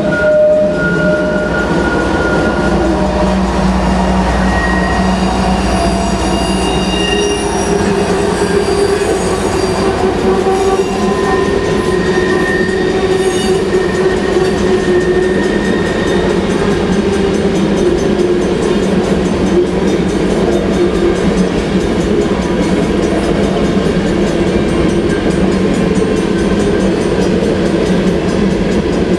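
CN ET44AC GEVO mid-train remote locomotive going past with its diesel engine running, its deep rumble fading after about seven seconds. A long string of empty potash covered hopper cars follows, a steady rolling of steel wheels on rail, with thin high wheel squeals in the first half.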